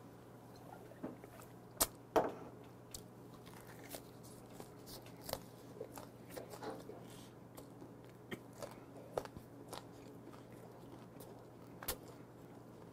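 Close-miked chewing of a spring-cabbage wrap of gwamegi, the dried, half-raw fish, with soft crunches of fresh vegetables and wet mouth clicks. There are a couple of sharper clicks about two seconds in.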